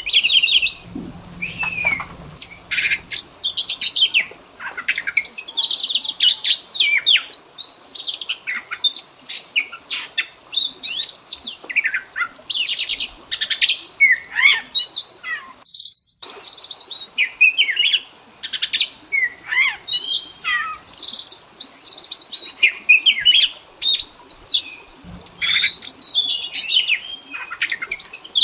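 Dense, fast and varied songbird chirping and whistling: recorded Oriental magpie-robin (kacer) song packed with 'isian' fill phrases, calls of other birds such as prenjak, ciblek or kenari, played as a training track to lure a caged bird into song. The sound cuts out for a moment about halfway through.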